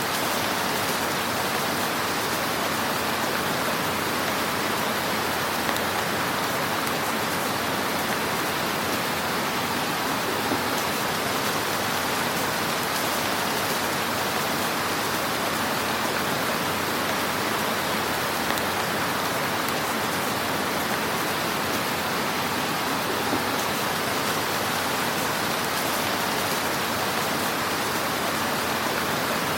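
Fire burning in a fireplace: a steady hiss with occasional small crackles and pops.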